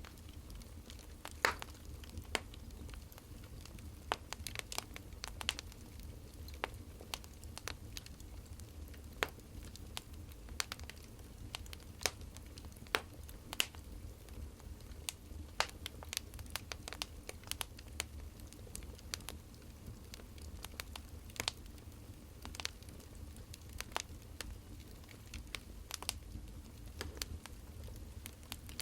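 Wood fire crackling: irregular snaps and pops, a few a second, over a steady low rumble.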